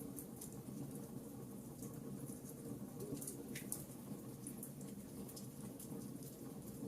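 Wood fire crackling in a fireplace: scattered small pops and snaps at irregular intervals over a steady low background.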